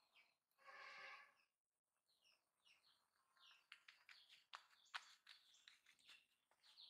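Near silence with faint bird chirps: short, quick falling chirps repeating throughout, a stronger call lasting about a second about a second in, and scattered faint ticks in the second half.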